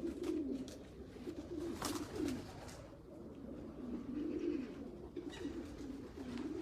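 Racing pigeons in a loft cooing: a steady run of low, wavering, overlapping coos from several birds, with a few faint clicks.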